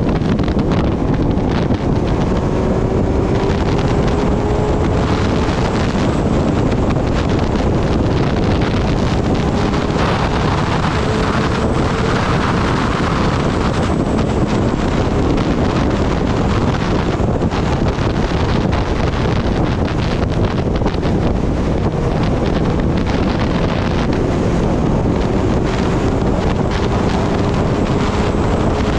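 Heavy wind rush on the microphone of a riding Kawasaki ZX-10R sport bike. Underneath it the inline-four engine's note rises slowly and faintly as the bike pulls in gear.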